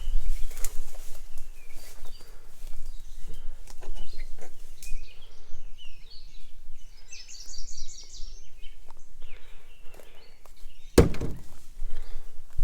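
Outdoor walking ambience with scattered footsteps and small clicks. A bird chirps a quick run of high notes about seven seconds in, and a single sharp thump comes near the end, the loudest sound.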